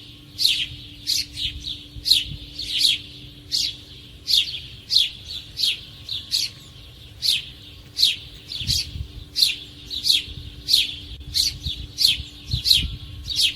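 A small animal chirping over and over, about two high-pitched chirps a second, each a quick downward sweep.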